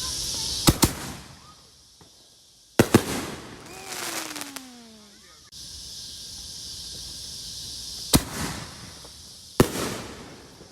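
Consumer fireworks going off: sharp bangs in two quick pairs in the first three seconds, then single bangs about eight and nine and a half seconds in, each with a short echoing tail.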